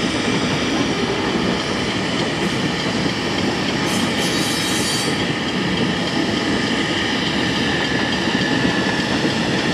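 Florida East Coast Railway freight cars rolling along the track during a switching move: a steady rumble of steel wheels on rail.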